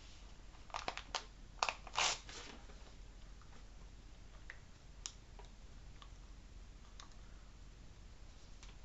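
A few short clicks and rustles in the first two seconds or so, then a faint steady low hum with occasional soft ticks.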